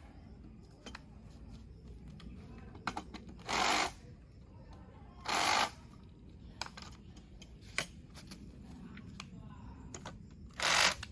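Parts of a portable camping kitchen unit being handled as it is taken apart: scattered clicks and knocks, with three short scraping, sliding noises, two near the middle and one near the end.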